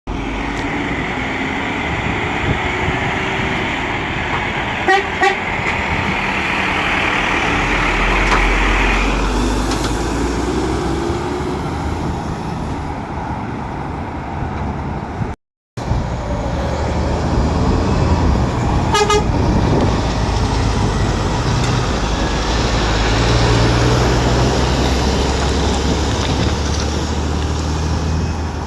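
Diesel lorry engines running, with two short horn toots about five seconds in and another toot later on.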